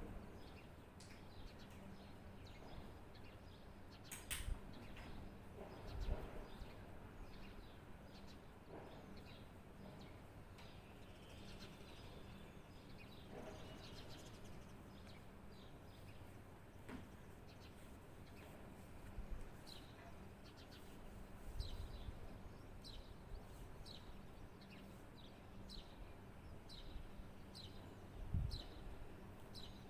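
Birds chirping: a bird repeats short, high, falling chirps about every second, more steadily in the second half, over a faint low background rumble. A sharp click comes about four seconds in.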